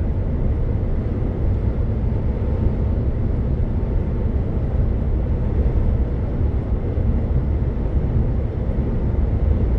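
MAN truck driving at a steady speed on the autobahn: an even, low rumble of engine and road noise with no change in pace.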